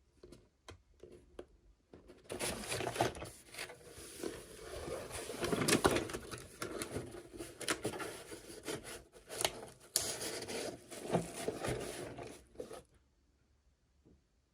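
Toy packaging being handled and opened by hand: a few light clicks, then about ten seconds of crinkling, rustling and scraping with small sharp ticks, stopping near the end.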